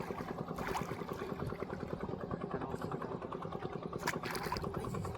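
An engine running steadily at a constant pace.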